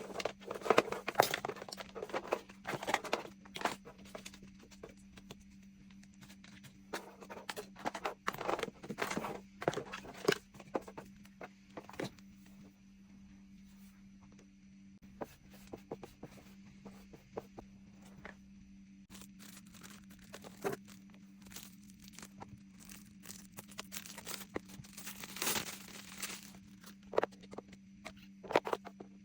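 Hands handling plastic packaging and small items: bouts of rustling and tearing with small clicks and knocks as things are unwrapped and set down.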